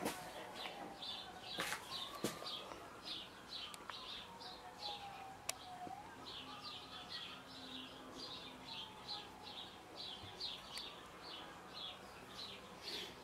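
A bird chirping over and over, about two or three short chirps a second, faint. Under it there are faint tones that slowly rise and fall, and a few sharp clicks.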